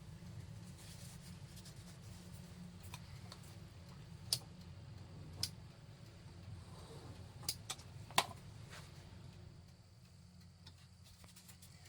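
A few sharp clicks or taps, five in all spread over the middle of the stretch, over a steady low hum.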